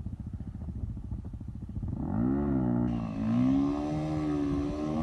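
KTM 450 EXC dirt bike's single-cylinder four-stroke engine idling with a fast, even thumping, then revved about two seconds in. The revs rise, dip, and are held high.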